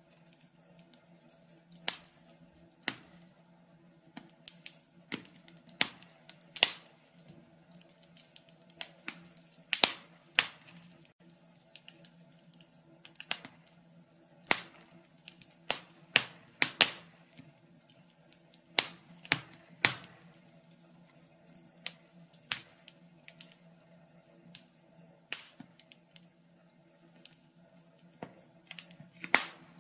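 Wood fire burning in a fireplace, logs crackling with irregular sharp pops, several a second, some much louder than the rest, over a faint steady low hum.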